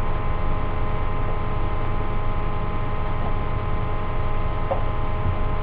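Steady electrical hum with hiss, a constant buzz of fixed tones and no events.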